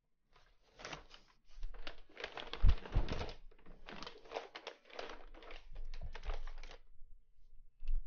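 Close-miked ASMR rustling and crinkling in irregular clusters, with two soft thumps a little under three seconds in, then it goes still near the end.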